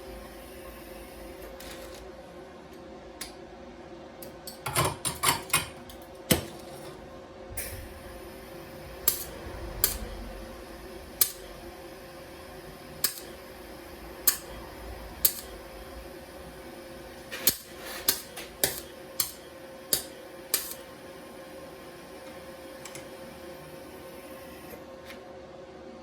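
Welding machine humming steadily, with about twenty short, sharp cracks that come singly and in quick clusters, as in brief arc strikes or tacks; they stop near the end and only the hum is left.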